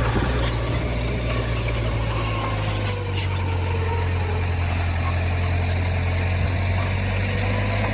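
Heavy diesel engine of earthmoving machinery running steadily, a low drone with a faint wavering whine above it and a few light clicks about three seconds in.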